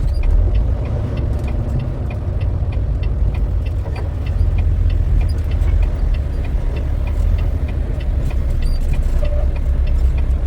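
Semi-truck diesel engine idling steadily, a deep rumble heard from inside the cab, with a faint regular ticking about two to three times a second.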